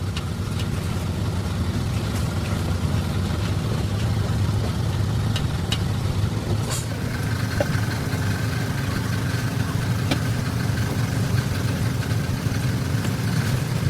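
A motor running steadily at idle, with a few light clicks over it.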